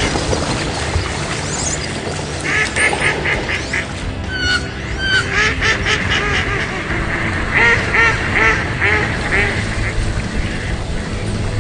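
Ducks quacking in quick runs of repeated calls, three or four bursts of several quacks each.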